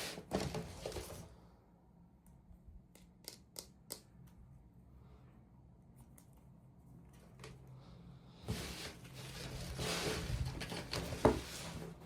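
Packaging being handled by hand: a short rustle, a few sharp clicks, then a longer rustling with clicks near the end.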